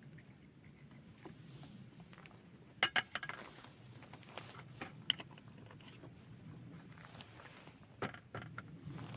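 Clicks and knocks of small hard objects being handled, loudest in a quick cluster about three seconds in and another near the end, over a steady low hum.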